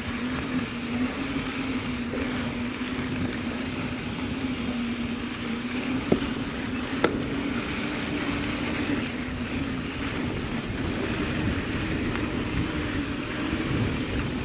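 Mountain bike riding on a dirt trail: wind on the microphone over a steady low hum, with two sharp clicks about six and seven seconds in.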